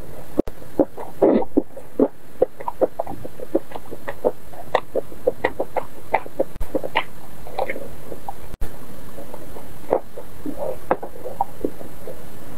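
Close-miked chewing and lip smacking as a mouthful of stuffed savory pancake is eaten: many short, irregular wet clicks, a few a second, over a steady hiss.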